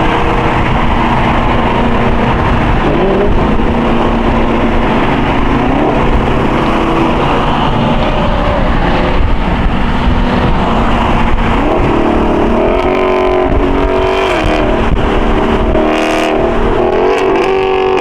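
Muscle-car engines and exhausts on the road, accelerating and revving, loud throughout. The pitch climbs and drops again and again through gear changes, most clearly in the second half.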